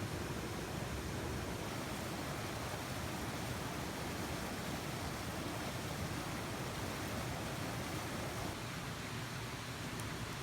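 Mountain stream rushing through a small rapid: a steady, full rush of water.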